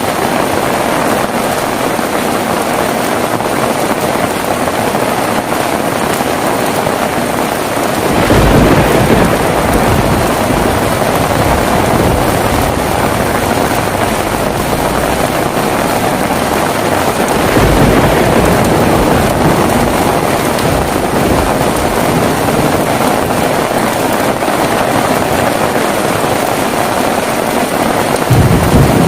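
Heavy rain falling steadily, with low rumbles of thunder rolling in about eight seconds in, again a little past halfway, and once more near the end.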